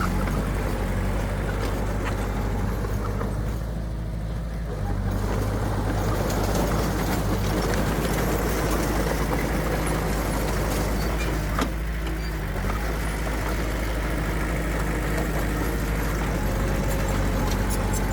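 Heavy earthmoving machinery's diesel engine running steadily, dropping briefly about four seconds in, with a single sharp knock later on.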